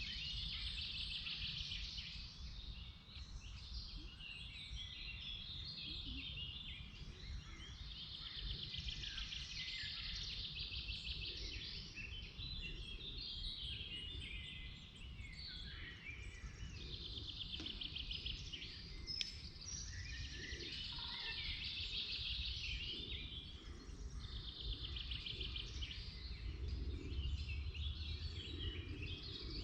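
Several songbirds singing in a forest: full song phrases of two to three seconds recur every few seconds, with shorter chirps from other birds in between, over a steady low rumble.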